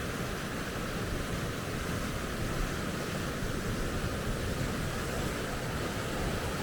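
Steady rush of water running over river rapids.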